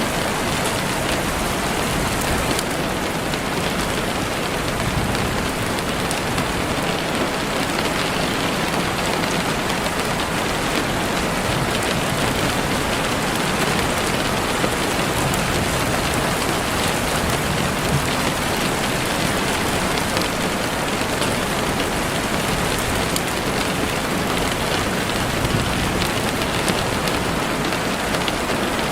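Heavy rain falling steadily on leaves and the forest floor: a dense, even hiss of drops at a constant level.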